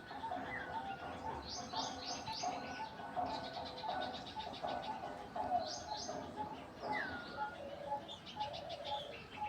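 Several birds calling at once: quick runs of high chirps over a lower, busy chatter, with a falling whistled note about half a second in and again about seven seconds in.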